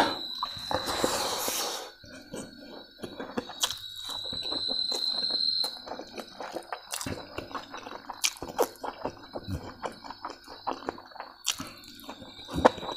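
Close-miked eating sounds: wet chewing, lip smacks and small clicks of the mouth as food is eaten, with a steady high-pitched tone coming and going in the background.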